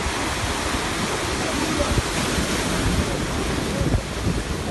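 Sea waves washing in on the shore, a steady rushing surf that swells slightly mid-way, with some wind on the microphone.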